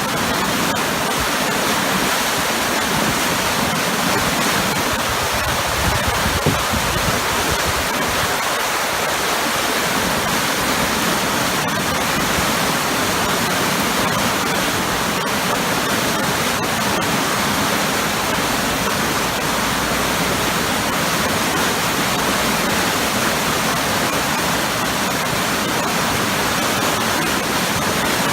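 Waterfall: a powerful, steady rush of falling water churning into heavy turbulence below, a dense even roar with no pauses.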